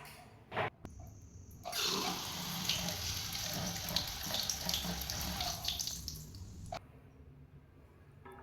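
Water rushing into a sit-down toilet's cistern through a newly fitted float valve. It starts about two seconds in after a short knock and stops abruptly near the end.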